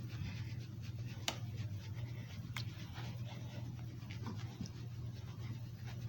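Faint scratchy rustling over a steady low hum, with two sharp clicks about a second and two and a half seconds in.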